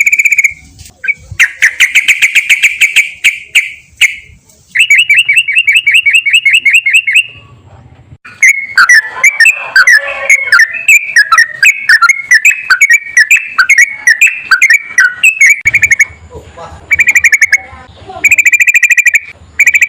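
Yellow-vented bulbul (trucukan) singing loud, fast runs of rapidly repeated chattering notes in bursts a couple of seconds long, with a longer jumbled warbling passage in the middle.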